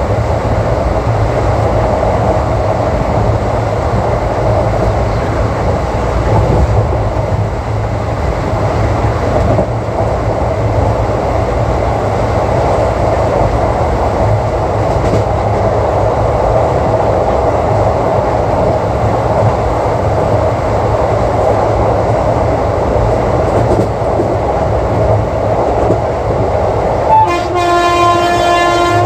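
ICF passenger coach running at speed on the track, a steady rumble of wheels and rails. About two seconds before the end, the WAP-4 electric locomotive's horn starts and sounds one long, held blast over the running noise.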